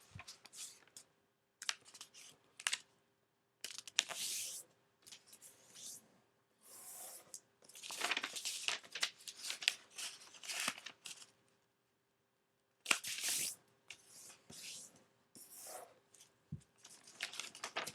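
A square of origami paper being folded along its diagonals and creased by hand: irregular bursts of paper rustling and crinkling, with a few short pauses between folds.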